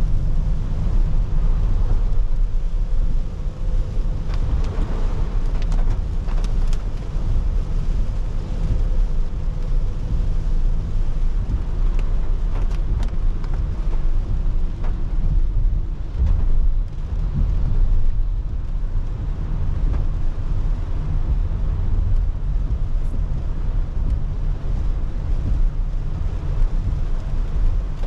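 A car driving in the rain, recorded on a dashcam: a steady low rumble of road and engine with rain noise over it, and a few sharp ticks now and then.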